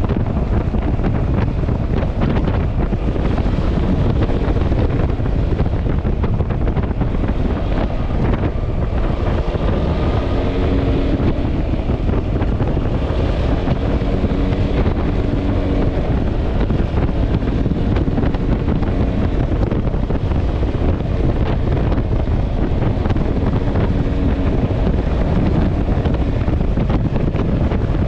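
Heavy wind buffeting the microphone while riding a Yamaha Xmax scooter. A faint engine hum shows through at times in the middle.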